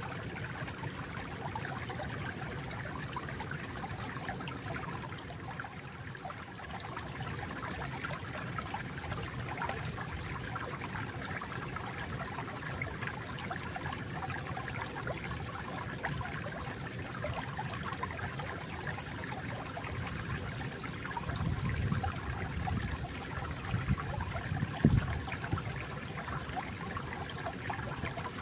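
Water flowing steadily in a stream, trickling and gurgling, with a few louder low gurgles or splashes a little after the middle and once more near the end.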